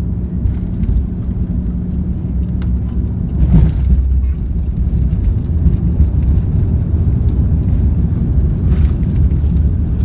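Steady low cabin rumble of an Airbus A340-313 during landing, heard from inside the cabin, with a single thump about three and a half seconds in, after which the low rumble grows louder.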